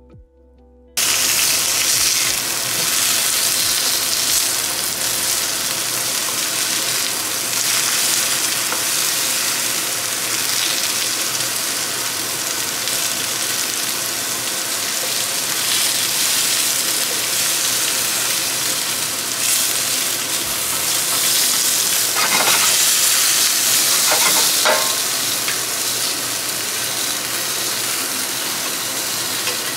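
Sliced zucchini, red bell pepper and mushrooms sizzling in olive oil in a frying pan, starting suddenly about a second in. They are stirred and turned with a slotted spatula, which scrapes the pan a couple of times a little past the middle.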